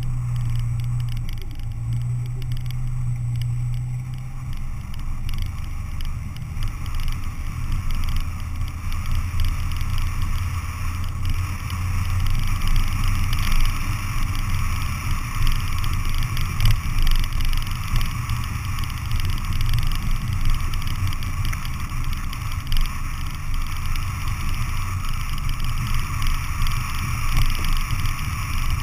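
Four-wheel-drive SUV driving, its engine a steady low drone over road noise; the engine note drops lower about four seconds in.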